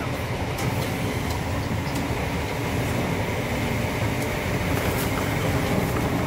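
Steady running noise inside a Mark 3 passenger coach of a High Speed Train at speed: a low rumble of the train on the track, with a few faint clicks.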